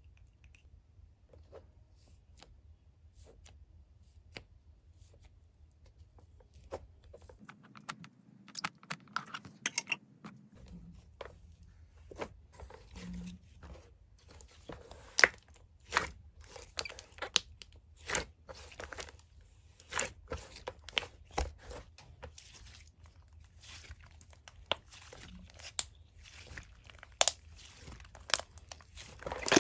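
Slime being played with, giving sharp crackling clicks and pops, sparse at first and growing denser and louder toward the end, over a low steady hum.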